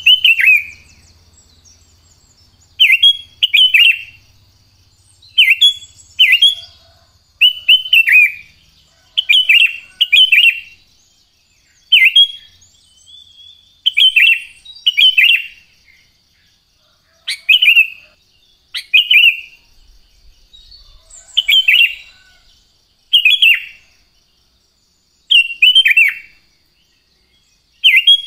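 Sooty-headed bulbul (kutilang) singing: loud, short phrases of two or three clear whistled notes that fall in pitch, repeated about every two seconds.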